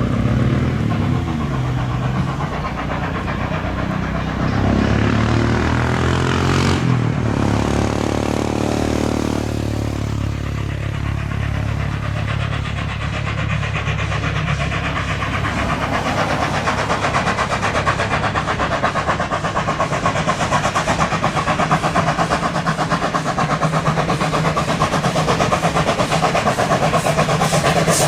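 Steam-hauled heritage train running, a steady rumble of wheels on rail. A fast, even pulsing grows slightly louder in the second half.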